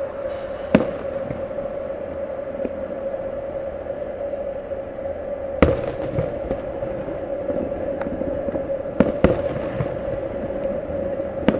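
Fireworks going off: a handful of sharp bangs, one about a second in, one midway, a quick double bang later on and one more near the end. A steady drone runs underneath.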